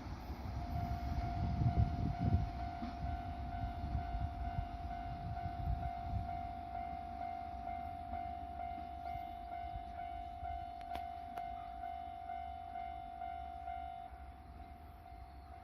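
Railway level crossing warning bell ringing, one repeated tone about twice a second, which stops shortly before the end. A low rumble runs under it for the first few seconds.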